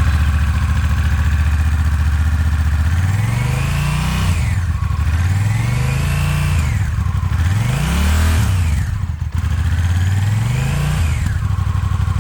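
Honda Rebel 1100's parallel-twin engine with its original stock exhaust, just started: it idles for about three seconds, then is revved four times, each rev rising and falling back toward idle.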